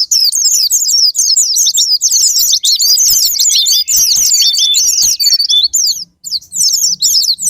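White-eyes (pleci) singing a rapid, unbroken stream of high twittering notes in a sparring song, with a short break about six seconds in.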